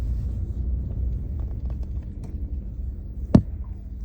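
Low, steady rumble of a car heard from inside the cabin as it moves slowly, with a single sharp click a little over three seconds in.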